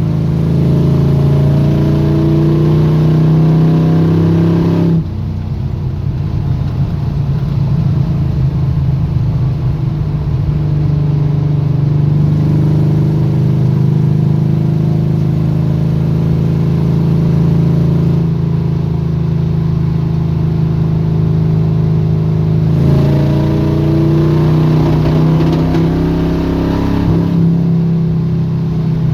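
Carbureted engine of a squarebody Chevy drag truck running under way, heard from inside the truck. The level drops suddenly about five seconds in and builds back, and the engine's tone changes again about 23 seconds in. It is running rough with one spark plug wire unplugged, on a carburetor the owner thinks is too big for the motor.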